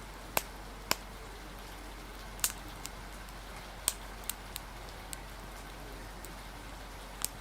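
Steady rain hiss with a crackling wood fire over it: sharp, irregular pops, about nine of them, scattered unevenly.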